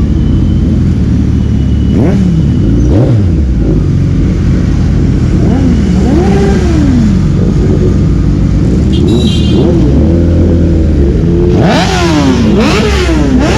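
Motorcycle engines revving, their pitch rising and falling again and again over a steady low rumble, with a louder rev near the end.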